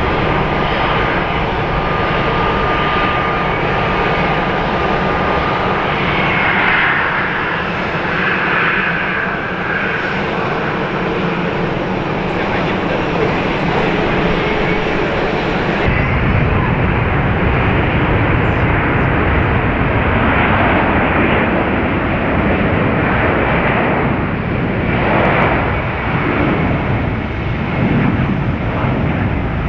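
Jet airliner engines running loud and steady, with a thin steady whine over the noise for the first several seconds. About sixteen seconds in the sound changes abruptly to a heavier, deeper engine noise.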